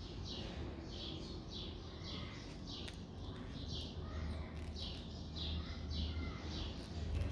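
A small bird chirping repeatedly in the background, short falling chirps about two to three times a second, over a low rumble, with one brief click about three seconds in.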